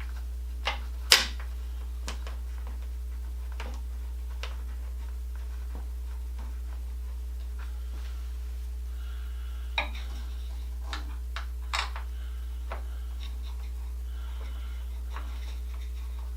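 Scattered light clicks and taps of small parts and tools being handled during exercise-bike assembly. The sharpest comes about a second in, and a few more follow around ten to twelve seconds in, over a steady low hum.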